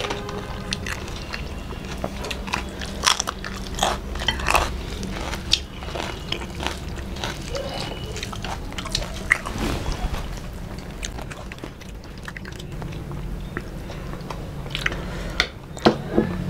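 People chewing and biting food close to the microphone, with irregular sharp crunches and wet mouth clicks; the loudest crunches come a few seconds in and again near the end.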